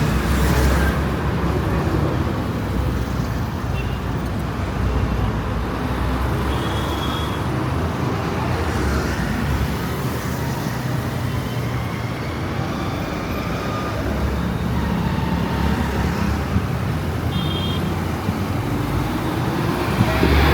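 Street traffic noise: engines of passing vehicles running steadily, with a couple of short high beeps, one about a third of the way in and one near the end.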